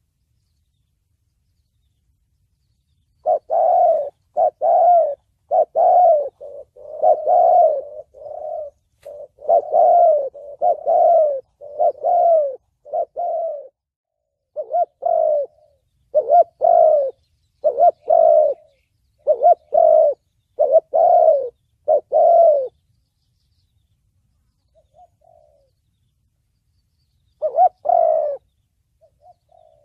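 Spotted dove cooing in the 'thổ bầu' voice: a long run of low, repeated coo notes, then a pause and two more coos near the end.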